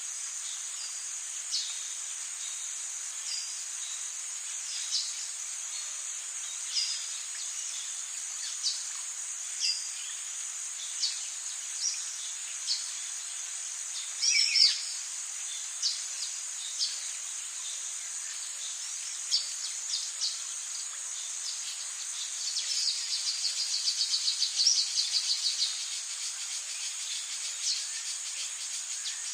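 Rainforest ambience: a steady, high insect drone with short calls about once a second, one falling call about halfway through, and a fast trill about three quarters of the way in.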